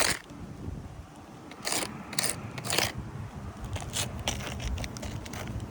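A few short, irregular scrapes and crunches against gritty asphalt roof shingles.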